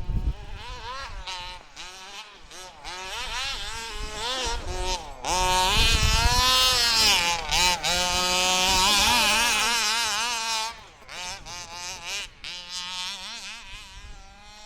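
Two-stroke 29cc engine of a 1/5-scale HPI Baja 5B gas RC buggy revving up and down in blips, then held at high revs for about five seconds before dropping back about ten seconds in.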